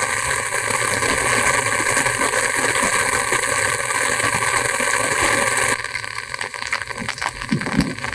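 Heavy rain, a steady rushing hiss. About six seconds in it drops off sharply, leaving quieter, irregular crackles and taps.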